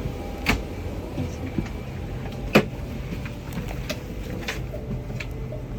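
Airport terminal background noise: a steady low hum with scattered knocks and clicks, the loudest a single sharp knock about two and a half seconds in.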